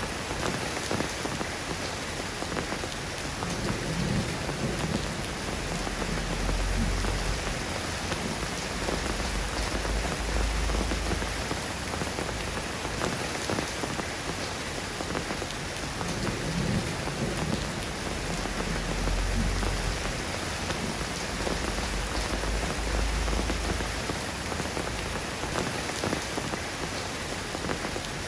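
Steady rain falling and pattering on surfaces, an even hiss throughout. Low rolls of thunder swell and fade a few times underneath.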